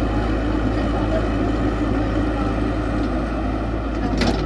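Caterpillar 312 hydraulic excavator's diesel engine running steadily under work, with a single sharp knock near the end.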